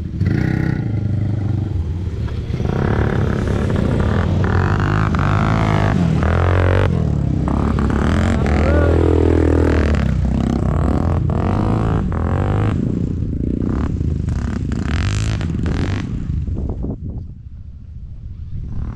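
ATV engine running under changing throttle, its pitch rising and falling, with rattling and scraping from the machine over rough ground; it eases off briefly near the end.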